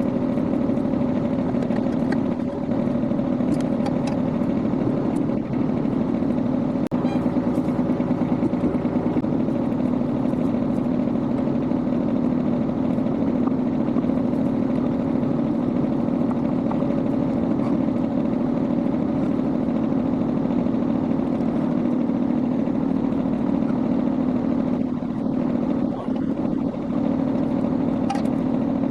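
Kubota B21 tractor's diesel engine running steadily at an even pitch.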